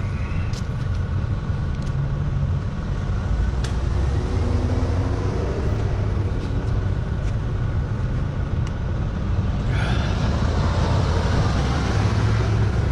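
Steady low rumble of vehicle engines and road traffic, with an even hiss that gets suddenly louder about ten seconds in.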